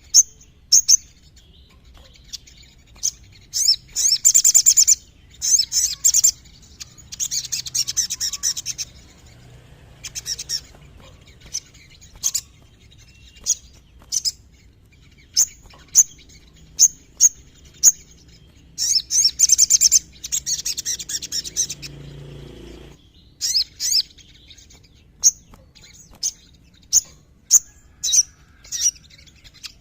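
Crimson sunbird (sogon) singing: a run of sharp, high single chirps broken by several rapid trilled bursts lasting a second or two.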